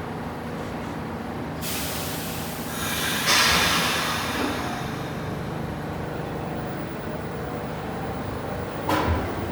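R46 subway car's equipment running with a steady low hum. About a second and a half in, a loud hiss of air starts, peaks a couple of seconds later and slowly fades: the train's air brakes releasing. A sharp knock comes near the end.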